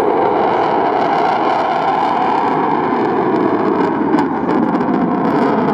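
Loud, steady engine noise of an aircraft performing at an airshow.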